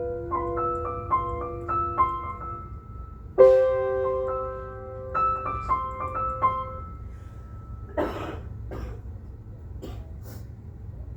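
Piano playing a held chord and quick runs of single notes, with a new chord struck about three seconds in; the music stops and a cough is heard about eight seconds in.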